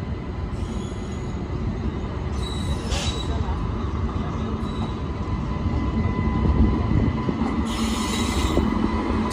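Passenger train moving along a station track: a steady low rumble of wheels on rails with a faint, steady high wheel squeal. Two short bursts of hiss come about two and a half seconds in and again near the end.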